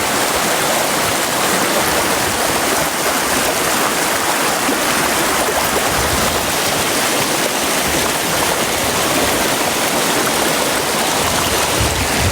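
Brook water running over rocks: a steady rush of flowing water.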